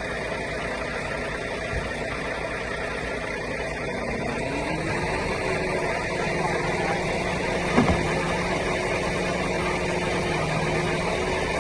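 An engine running steadily, its pitch rising about five seconds in and then holding higher as it is revved up, with a single sharp knock about eight seconds in.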